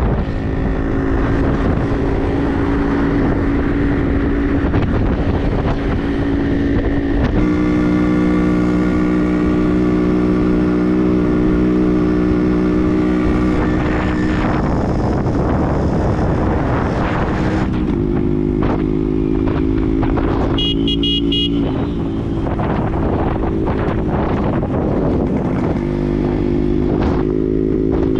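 Yamaha RX100 two-stroke single-cylinder motorcycle engine, fitted with a Y1 cylinder kit, running steadily on the move. Its note steps to a new pitch several times, about 7, 14, 18 and 26 seconds in. A brief high-pitched buzz cuts in about 21 seconds in.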